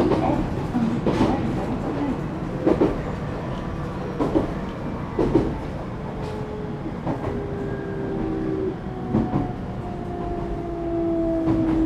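Echigo Tokimeki Railway ET127 series train running on its Toyo Denki GTO-VVVF inverter traction motors, with a slowly falling motor whine in the second half as it slows down. Wheels knock over rail joints now and then.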